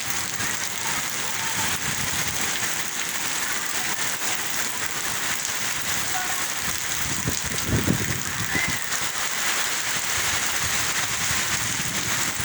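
Steady rain falling, an even hiss of raindrops. About eight seconds in there is a brief louder low rumble.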